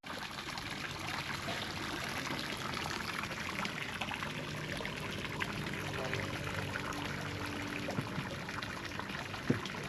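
Seawater splashing and washing, a steady hiss full of small crackles, as of small waves breaking on the shore.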